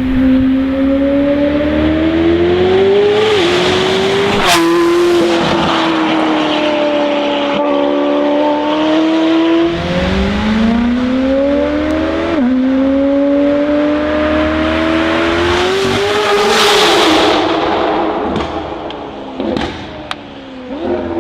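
McLaren 720S twin-turbo V8 through a Novitec sport exhaust, accelerating hard, its pitch climbing through the revs and dropping at each quick upshift, several times. Near the end it eases off, with a few sharp exhaust pops.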